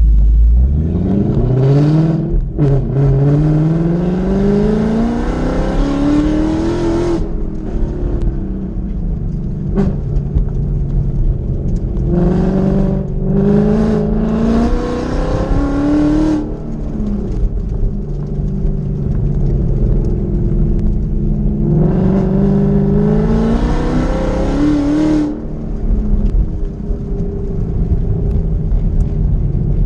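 2020 Ford Mustang GT's 5.0-litre V8, heard from inside the cabin, revving up repeatedly under hard acceleration. Its pitch climbs in long sweeps, drops off sharply between them, and runs steadier near the end.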